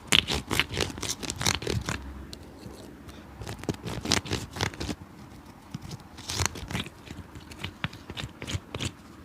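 Quick scraping strokes of a cobbler's hand tool on a shoe: a fast run of strokes in the first two seconds, then short groups of a few strokes with pauses between.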